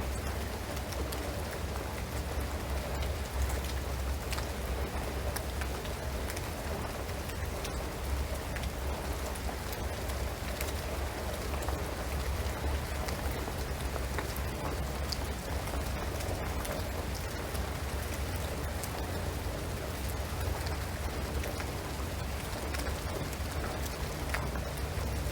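Steady rain falling on a shingled roof and pine trees, a continuous hiss dotted with many small drop ticks, over a low rumble.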